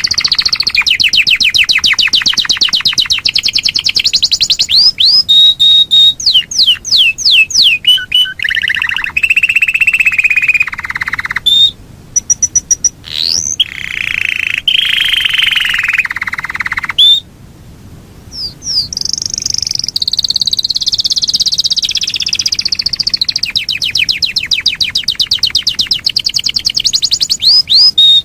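Yorkshire canary singing long rolling trills of very rapid repeated notes, mixed with whistled gliding notes. The song breaks off briefly about 12 seconds in and again at about 17 seconds, then resumes with another long roll.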